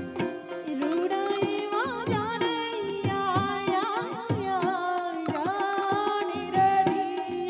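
Gujarati wedding song (lagan geet): a singer's ornamented, wavering melody enters about a second in over a steady drum beat and instrumental accompaniment.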